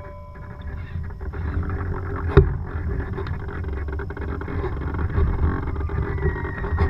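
Low rumbling wind and water noise aboard a sailboat under way, with one sharp knock a little over two seconds in.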